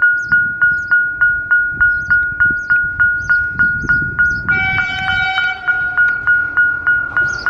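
Railway level crossing warning bell ringing steadily, about three strokes a second, as a train approaches. Just past the middle, a train horn sounds for about a second over the bell.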